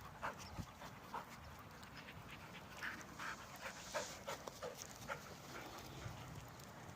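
Huskies panting as they run, with short irregular scuffing sounds scattered through.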